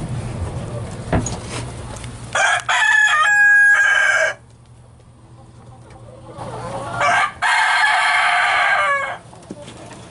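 Two rooster crows, each about two seconds long, the first starting about two and a half seconds in and the second about seven seconds in, with chickens clucking around them.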